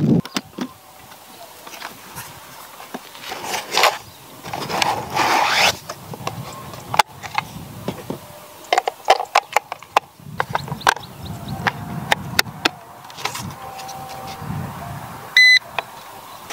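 Handling clicks, scrapes and rustles from a hard carry case and a plastic radio transmitter as AA batteries are fitted into the transmitter, then a short electronic beep near the end as the YU XIANG RC transmitter is switched on.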